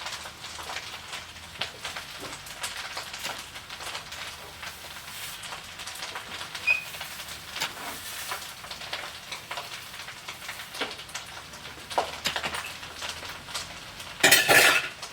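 Fried rice sizzling and crackling in a hot pan. Near the end, a sudden loud sneeze.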